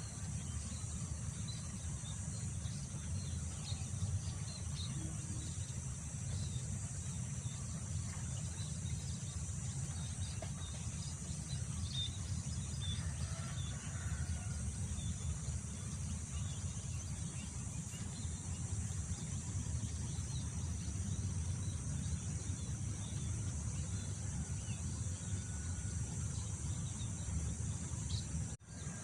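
Wind buffeting the microphone in a steady low rumble, over a continuous high drone of insects and scattered bird chirps. The sound drops out for a moment near the end.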